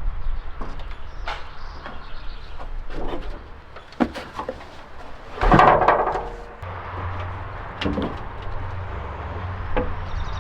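Metal knocks and clanks from parts of an old pickup truck being handled during teardown, with one louder rattling scrape about halfway through. A low steady hum comes in just after it.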